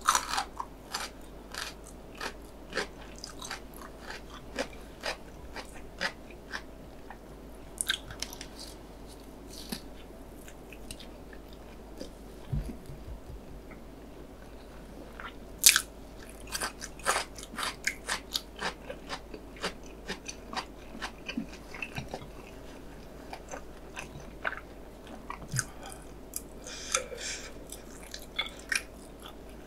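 Close-miked eating sounds of a person chewing spicy stir-fried instant noodles: a steady run of short wet smacks and clicks from the mouth, coming thicker in stretches, with a few brief hissy slurps.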